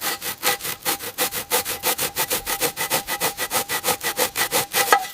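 Hand saw cutting through wood in quick, even back-and-forth strokes, about five a second, stopping suddenly near the end.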